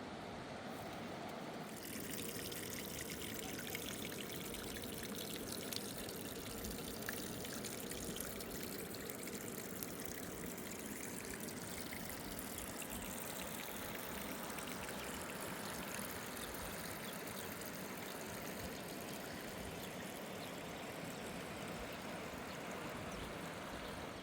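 River water rushing in a steady, even stream of noise, which turns brighter about two seconds in.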